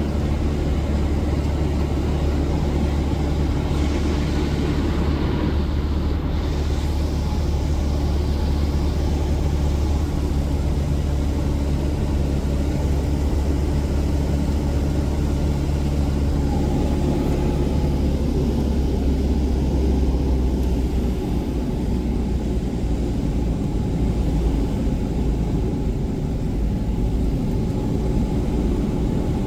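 Cessna 177 Cardinal's single piston engine and propeller droning steadily in flight, heard from inside the cabin. The pitch of the drone shifts slightly partway through.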